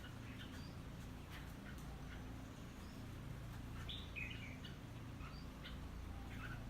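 Red-whiskered bulbul (crested bulbul) calling: short, scattered chirps, with a brief louder two-note phrase about four seconds in.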